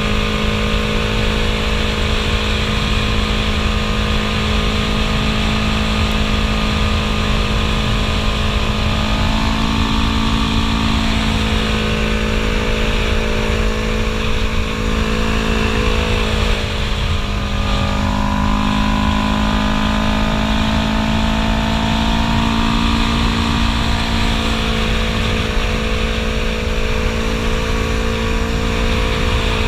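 Yamaha YZF R3's parallel-twin engine through a Two Brothers Racing S1R full-system exhaust, running hard at a fairly steady engine speed while riding, with wind rumble on the microphone. The engine note rises about ten seconds in, drops and climbs again around the middle, and rises once more later on.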